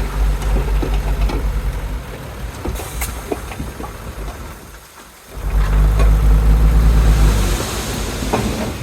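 Heavy diesel engine of earthmoving machinery running with a low rumble and scattered clanks. It fades away about four and a half seconds in, then comes back loud about a second later.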